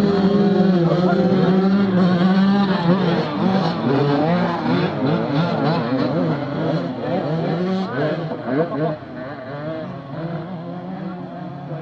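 Several dirt bike engines revving and accelerating, their pitch rising and falling and overlapping. Loudest through the first eight seconds, then easing off at about nine seconds.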